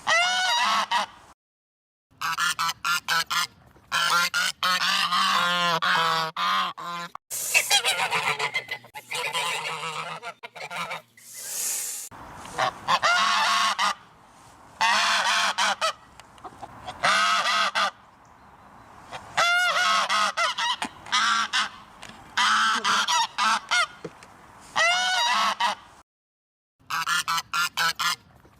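Geese honking over and over in loud clusters of calls, broken twice by short spells of complete silence.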